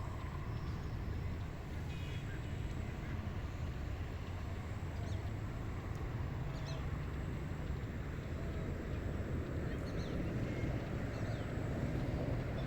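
Steady wind over open rice paddies, a continuous low rumble with a hiss above it. Faint short bird calls sound now and then over it.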